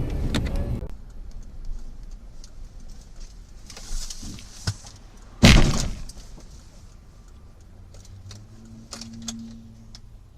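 Car collision: one loud crashing bang about five and a half seconds in, after a brief hiss and a knock a second or so earlier. Quiet road noise follows.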